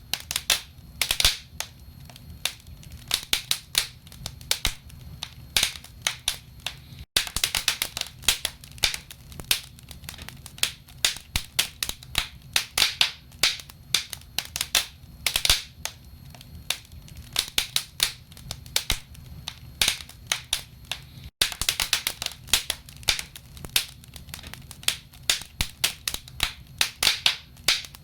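Wood logs burning in a fireplace, crackling with dense, irregular sharp pops and snaps over a low steady rumble of the flames. The sound cuts out for an instant twice.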